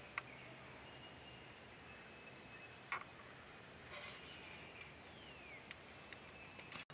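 Faint outdoor ambience with scattered high chirps, one falling whistle, and a few sharp clicks.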